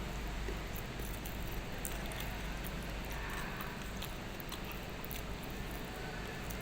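Close-up chewing and mouth sounds of someone eating, with scattered small clicks over a steady background hum.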